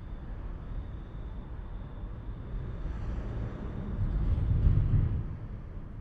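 A vehicle passing by: a low rumble that builds, peaks a little before the end, then fades away.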